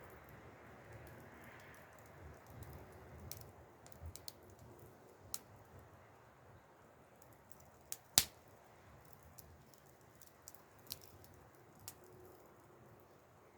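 Wood fire crackling: scattered sharp pops and snaps over a low steady background, with one much louder pop about eight seconds in.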